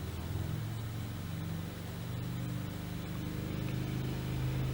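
A steady low engine-like hum, growing slowly louder.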